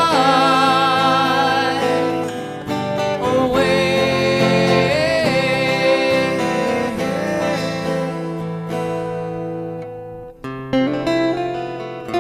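Strummed acoustic guitar accompanying a sung melody of long held notes with vibrato and no clear words for roughly the first seven seconds. Then the guitar carries on alone, with a brief pause about ten seconds in before the strumming picks up again.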